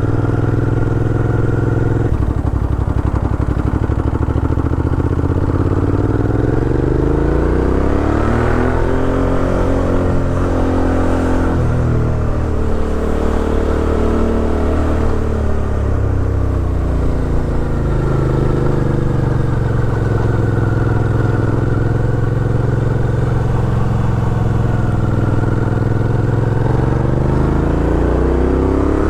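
Suzuki V-Strom 650 XT's V-twin engine running under way, its pitch rising and falling several times as the throttle opens and closes and the gears change, with steady road and wind noise over it.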